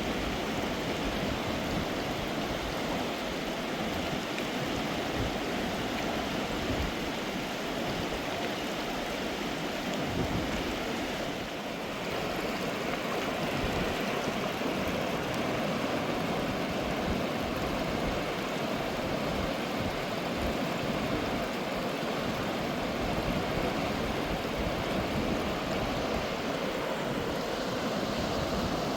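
Mountain river water running over rocks, a steady rush of water with no break.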